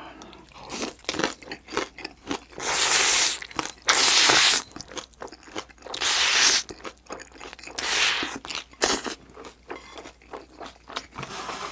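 Close-miked crunchy chewing of green onion kimchi, broken by about four loud breathy gusts of under a second each.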